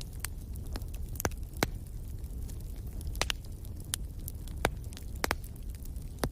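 Wood fire in a fireplace crackling: sharp pops and snaps at irregular intervals, about ten in a few seconds, over a steady low rumble of the flames.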